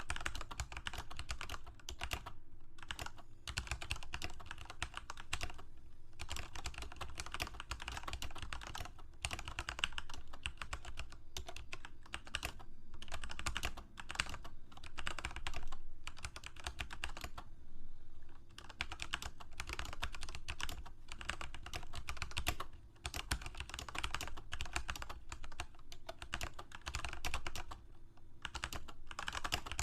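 Fast, continuous typing on a computer keyboard: dense runs of key clicks broken by short pauses, the longest just past the middle.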